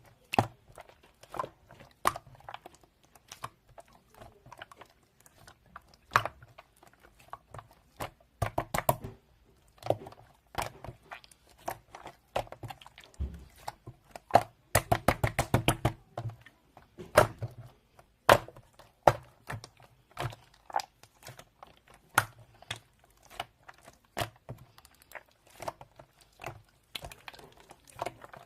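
Marbled slime being squished and pressed by hand, giving irregular sharp clicks and pops, with quick rattling runs of them about nine and fifteen seconds in.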